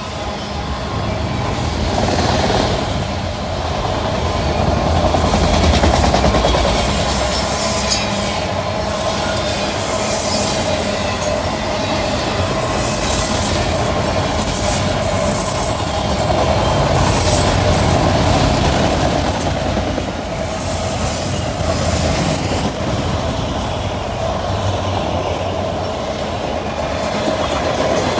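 Freight cars of a CSX train rolling past at about 48 mph: a steady wheel-on-rail rumble with repeated clacks, and a steady squealing tone from the wheels.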